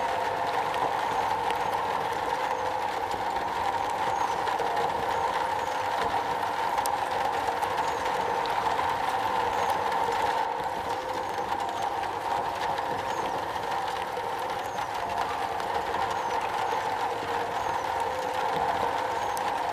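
Steady rain drumming on a metal roof: a dense, even patter with scattered sharper drop ticks.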